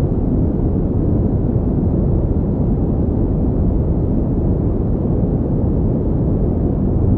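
Steady pink noise: an even, unbroken rushing hiss, heavy in the low end and dull at the top, with no change at all.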